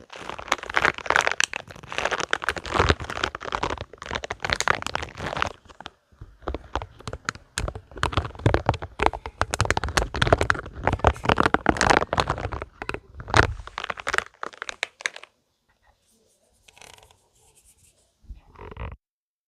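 Spiky rubber balls squeezed and rubbed in the hands, a dense crackling, scratchy rubbing. It dips briefly about six seconds in, thins to a few faint touches after about fifteen seconds, and stops shortly before the end.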